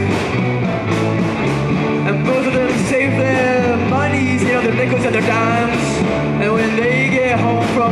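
Live rock band playing with guitars, bass, drums and organ: a steady repeating riff under a gliding, bending melodic line.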